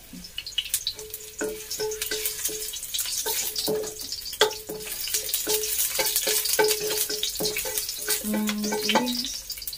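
Sliced aromatics sizzling lightly in oil in a nonstick wok, with a wooden spatula scraping and tapping the pan many times as they are stirred.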